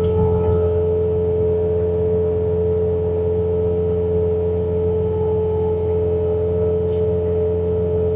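Bobcat T66 track loader running steadily at full throttle while driving its snowblower attachment through deep snow: a constant engine drone with a steady high whine on top.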